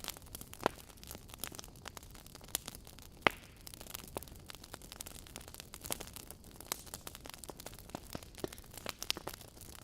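Wood fire burning in a fireplace: a soft steady hiss with irregular crackles and pops from the burning logs, one sharp snap about three seconds in.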